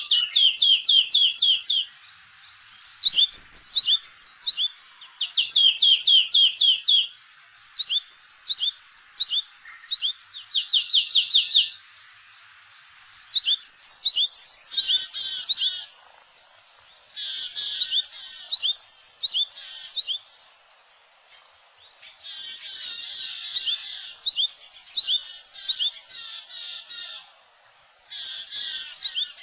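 Small wild songbirds calling in rapid runs of repeated high chirps, each run lasting one to three seconds with short pauses between them.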